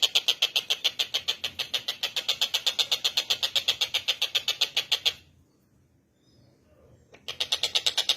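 Tengkek buto bird calling in a fast, high, even rattling trill of about eight notes a second. It breaks off about five seconds in and starts again about two seconds later.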